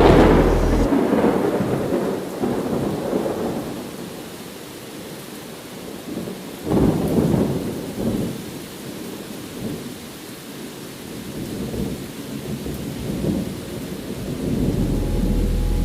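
Thunder: a sharp clap right at the start that rolls into a rumble fading over a few seconds, then a second thunderclap about seven seconds in that rumbles away, over steady rain.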